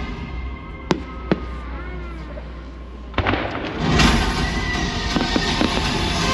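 Fireworks bursting: two sharp bangs about a second in, another sharp burst near the middle, then a run of crackling pops over music that swells back in.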